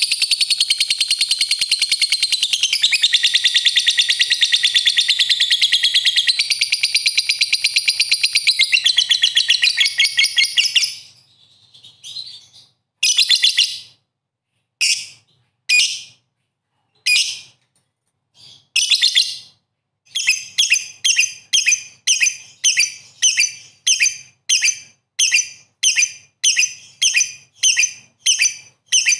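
Songbird song used as a lure for fighter songbirds: a long, rapid, high chattering trill that breaks off about eleven seconds in, then a few separate bursts, then a short call repeated about one and a half times a second.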